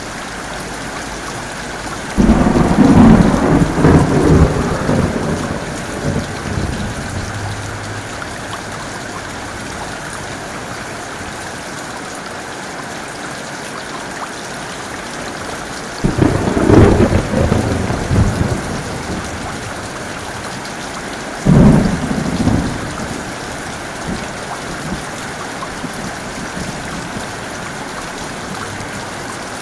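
Steady heavy rain with three claps of thunder: one about two seconds in that rolls on for several seconds, another about halfway through, and a shorter one a few seconds after that, each starting suddenly and rumbling away.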